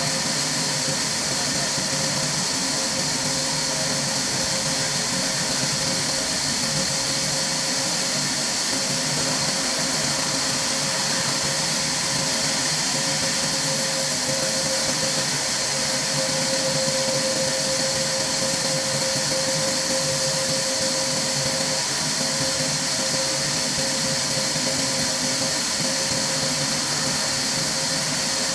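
Steady machine noise: a constant hiss with a steady hum running through it, unchanging throughout.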